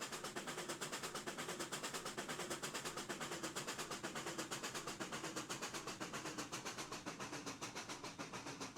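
Steam exhaust of Pennsylvania Railroad 4-4-2 No. 7002 and 4-4-0 No. 1223 working a doubleheader train: a rapid, even run of beats, several a second, with no let-up.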